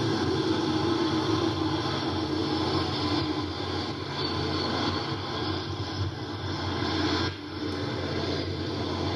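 Twin turboprop engines of a U.S. Air Force C-27A Spartan cargo plane running steadily, a droning whine with several steady tones over a wash of noise, which drops off sharply about seven seconds in.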